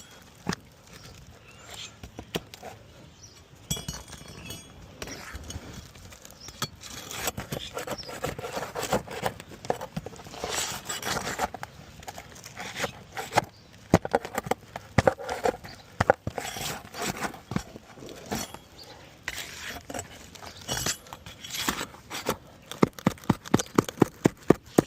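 Hand tools working loose a hail-damaged asphalt shingle: scraping and prying noises, then a quick run of sharp knocks in the last few seconds.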